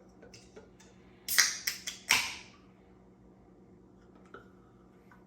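A carbonated fruit punch Fanta being opened: light clicks, then sharp cracks about a second in, and a louder pop just after two seconds with a short hiss of escaping gas.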